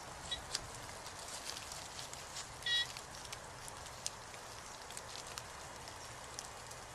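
Steady rain with scattered light drops ticking, and a brief high beep a little under three seconds in, with a fainter one near the start.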